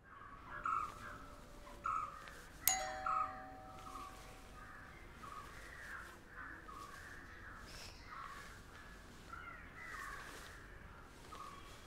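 Birds calling over and over, short calls every second or so. About three seconds in there is a sharp click with a short ringing tone.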